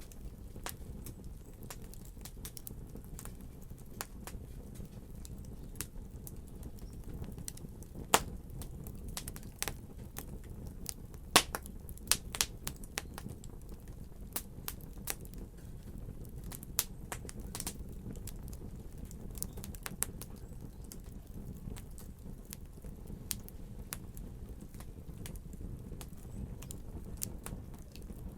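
Wood fire crackling, with irregular sharp pops over a soft steady roar; a few louder snaps come about eight seconds in and around eleven to twelve seconds.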